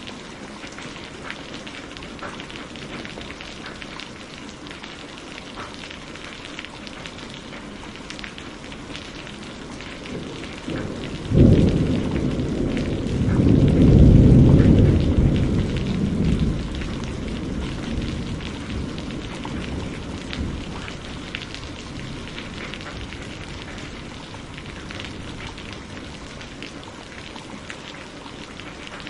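Steady rain falling, with a clap of thunder a little over a third of the way in that rolls on as a low rumble for several seconds before fading back under the rain.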